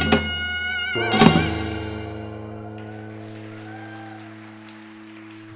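A Korean traditional music ensemble plays the closing note of a folk song. A last drum stroke comes about a second in, then the held final note rings on and fades away.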